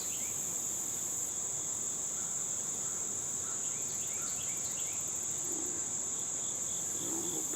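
Insects trilling steadily at a very high pitch, a constant outdoor chorus with faint short chirps over it.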